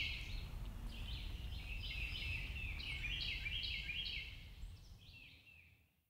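A bird calling in quick series of short, repeated high notes, over a low steady rumble of outdoor background noise; both fade out near the end.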